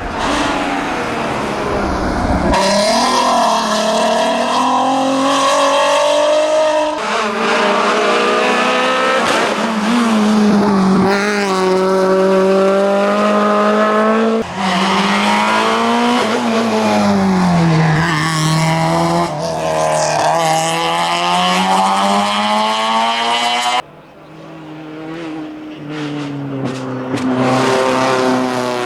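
Racing cars on a hillclimb run, engines revving hard and climbing in pitch, then dropping sharply at gear changes and under braking into corners. It is several separate passages of car sound, each breaking off abruptly into the next.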